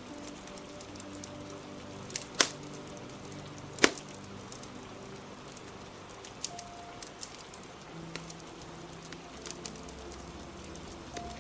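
Wood fire crackling with scattered sharp pops, two loud pops a second and a half apart, over a steady hiss of rain and soft music with held notes.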